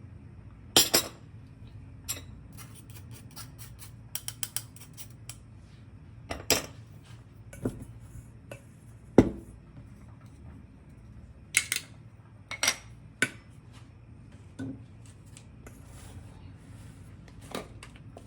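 Kitchen utensils and dishes being handled: a string of separate sharp clinks, clicks and knocks, irregularly spaced, the loudest about nine seconds in.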